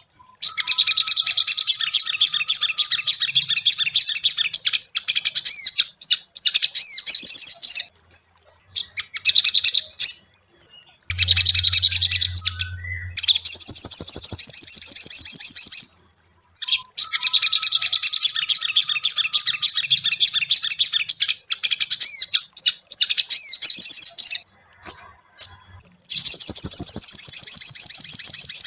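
Sogon (crimson sunbird) singing in long bouts of fast, high twittering trills, each lasting several seconds, with short breaks between them. A low hum joins for a couple of seconds about eleven seconds in.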